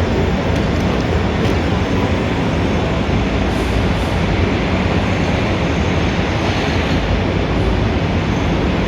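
Steady city traffic noise: a dense, even rumble of engines and tyres with no single vehicle standing out, and a few faint ticks over it.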